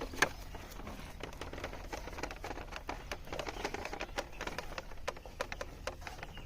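Bamboo footbridge creaking and clicking under careful footsteps, a run of small irregular clicks with one sharper crack just after the start.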